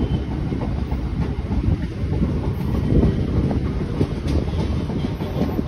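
Train running along the rails, heard from aboard: a steady low rumble of wheels on track with a few faint clicks.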